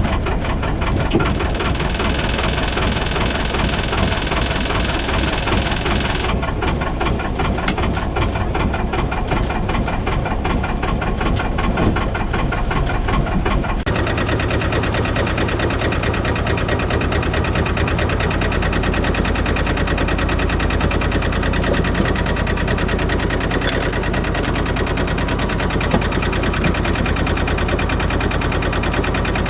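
Albin 2D inboard boat engine running with a steady, rhythmic knocking beat. Its sound changes abruptly about halfway through.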